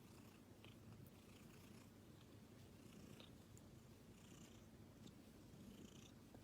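A cat purring faintly, a steady low rumble.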